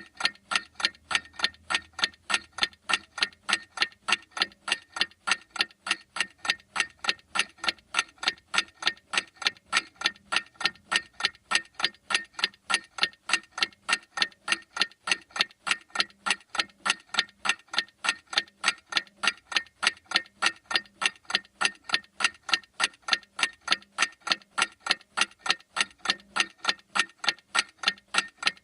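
Clock ticking steadily and evenly, about two sharp ticks a second.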